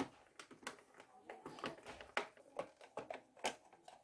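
Irregular light clicks and taps of hard plastic parts being handled, about two a second.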